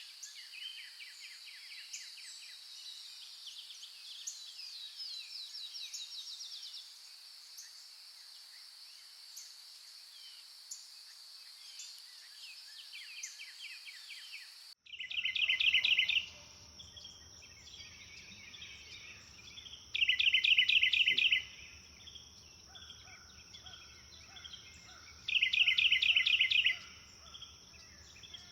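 Songbirds chirping and trilling over a steady high-pitched insect drone. About halfway through the ambience changes abruptly, and a bird sings a loud, rapid trill three times, about five seconds apart, over a steady high insect whine and a low rumble.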